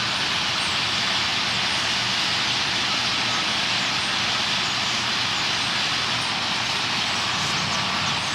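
A huge roosting flock of purple martins calling all at once, a dense steady wash of chirps.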